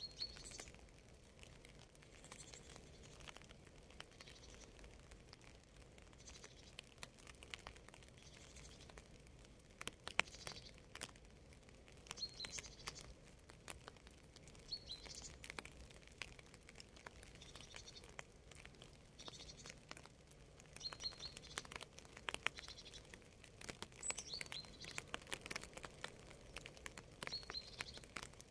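Faint light rain, scattered drops ticking and pattering, with a small bird giving short high chirps every few seconds.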